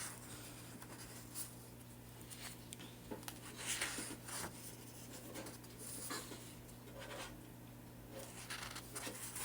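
Pages of a paper coloring magazine being turned, with soft rustling swishes every couple of seconds, over a low steady hum.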